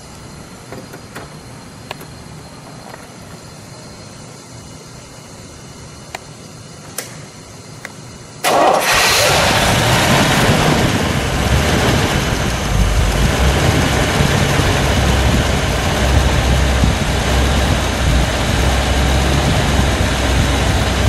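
The Iso Grifo's 7-litre Chevrolet big-block V8 is started from cold: after several quiet seconds with a few faint clicks, it catches suddenly about eight and a half seconds in. It then settles into a loud, steady idle.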